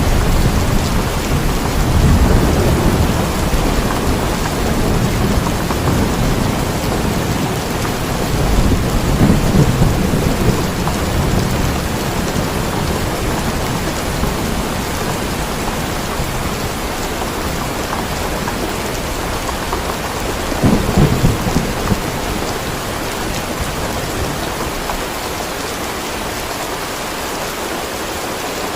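Steady heavy rain with low thunder rumbling several times, the strongest rumble about two-thirds of the way in, and rain alone near the end.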